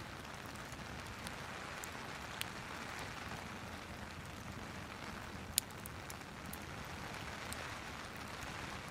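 Steady rain with a crackling fireplace: an even hiss of rainfall under scattered sharp pops and crackles, one louder pop a little past halfway.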